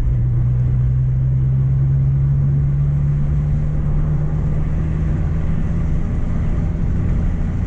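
Mk1 Renault Clio's engine running with a steady drone over a low rumble. The drone rises slightly in pitch over the first few seconds, then fades about five seconds in.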